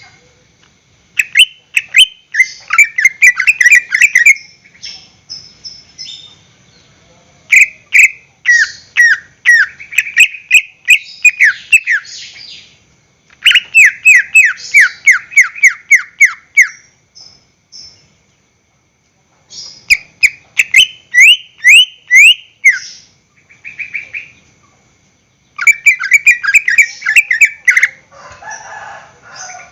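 Green leafbird (cucak ijo) singing: phrases of rapid, repeated down-slurred whistled notes, about four a second, broken by short pauses.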